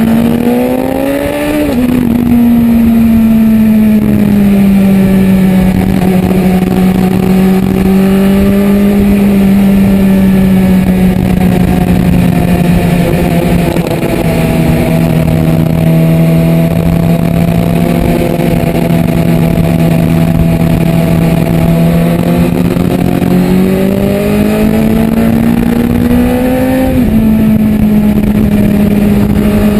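Motorcycle engine under way at a steady cruise, with wind rush. The engine's pitch climbs and then drops suddenly as it shifts up, once about two seconds in and again near the end.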